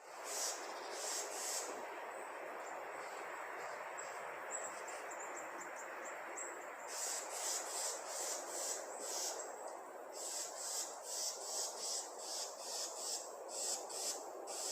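Birds chirping: short, high-pitched chirps repeated about two to three times a second in runs, with a quicker run of thin notes partway through, over a steady background hiss.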